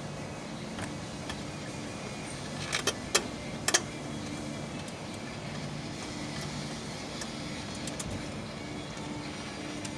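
Steady low mechanical hum, with a quick run of four or five sharp clicks or knocks about three seconds in.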